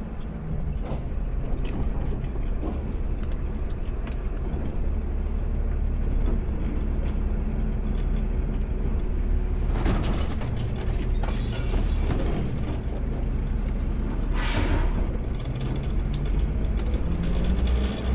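Automated sideload garbage truck's engine running with a steady low rumble, heard from the driver's cab, with scattered clicks and knocks. A short hiss of air about ten seconds in and a louder, sharp half-second hiss near fifteen seconds, typical of the truck's air brakes releasing.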